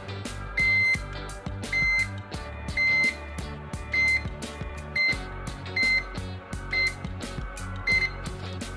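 About eight short, high electronic beeps, roughly one a second and somewhat irregular, from a Fujitsu air conditioner answering presses on its wall-mounted control buttons, over background music with a steady beat.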